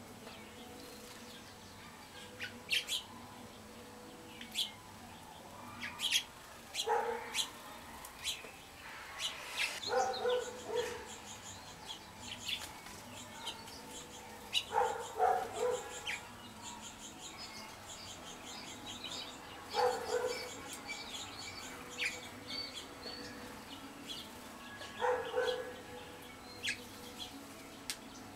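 Wild songbirds chirping and calling, many short high notes. A louder, lower two-part sound repeats about every five seconds.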